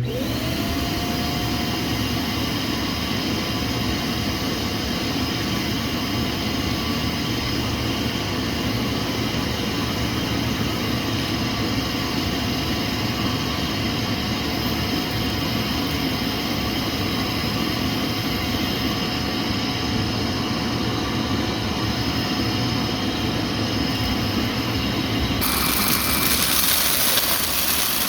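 Vacuum cleaner with a clogged brushroll switched on, its motor spinning up to speed within the first second with a rising whine, then running steadily. About 25 seconds in the sound turns suddenly brighter and hissier.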